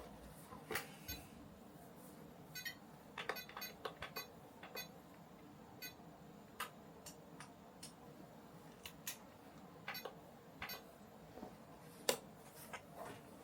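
Scattered small clicks and taps of plastic and metal kit parts and hand tools being handled while assembling a 1/14 scale R/C truck, some with a brief rattle, and one sharper click near the end.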